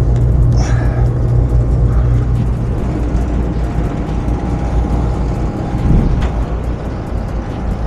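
Rooftop commercial packaged HVAC units running: a loud, steady low hum with a faint steady tone above it.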